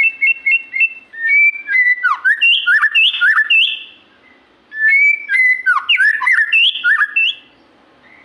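White-rumped shama (murai batu) singing in full song: two loud phrases of clear whistles, rapid repeated notes and swooping slurs, with a short pause between them about four seconds in.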